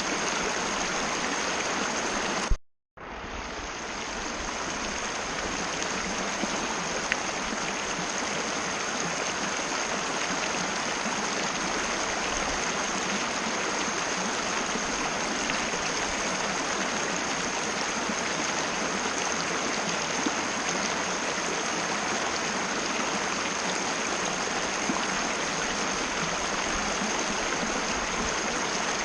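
Mountain river flowing over rocks, a steady rushing of water with a thin steady high tone above it. About two and a half seconds in it cuts out for a moment after a click, then fades back in.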